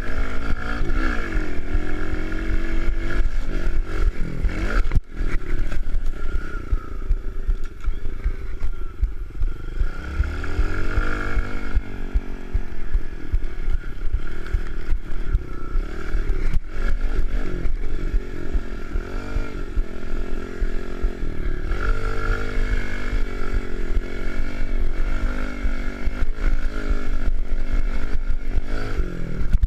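Kawasaki KLX110 pit bike's small four-stroke single-cylinder engine, ridden hard, its revs rising and falling again and again.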